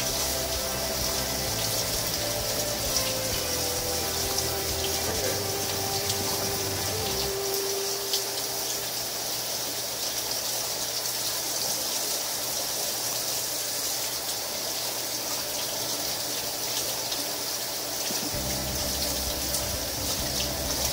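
Cold tap water running steadily into a stainless steel kitchen sink, splashing over cooked snow crab held under the stream as it is rinsed clean.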